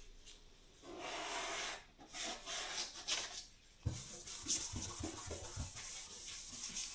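Hand sanding: sandpaper rubbing over a surface in a run of uneven scratchy strokes, with a few soft knocks in the second half.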